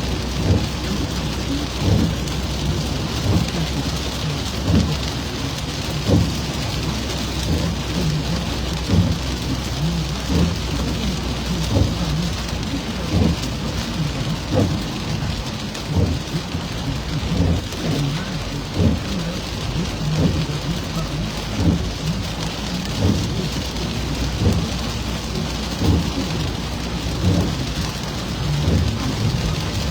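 Steady heavy rain, with dull thumps of drops striking close by about once or twice a second over a low rumble.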